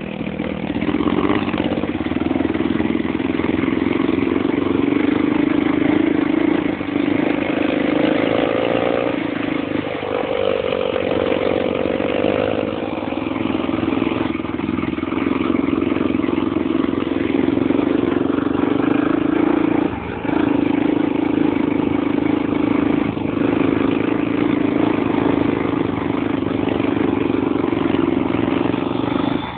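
Motorbike engine running steadily, with brief dips in level every few seconds.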